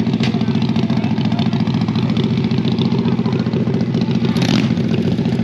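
Motorcycle engine idling steadily, with a brief hiss about four and a half seconds in.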